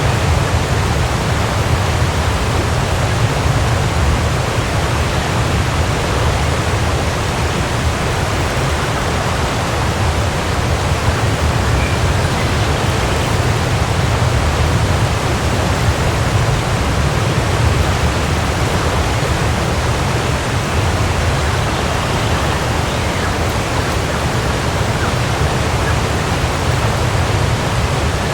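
Waterfall rushing steadily, a dense even roar of falling water with a strong low rumble.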